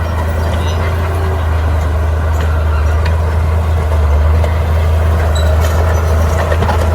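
Bulldozer's diesel engine running steadily with a deep, even drone, with a few faint scattered clicks over it.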